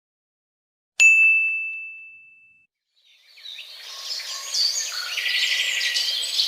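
A single bright ding that rings out and fades over about a second and a half. After a short silence, birds start chirping, a busy run of short calls.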